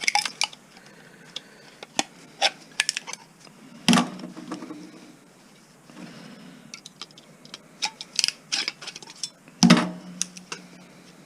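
Sharp clicks and snips of hand cutters and metal parts clattering as wiring is cut out of a stereo's chassis, with two heavier knocks, one about four seconds in and one near the end.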